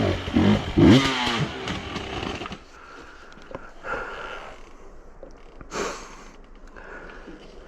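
Enduro motorcycle engine revving hard in several quick bursts, its pitch sweeping up and down, then cutting off about two and a half seconds in.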